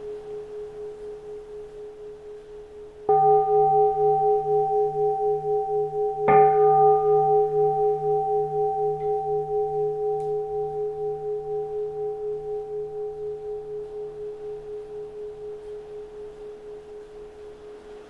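A keisu, a Japanese Buddhist bowl bell, is struck twice, about three and six seconds in, on top of the fading ring of an earlier strike. After the second strike it rings on with a steady wavering pulse and slowly fades.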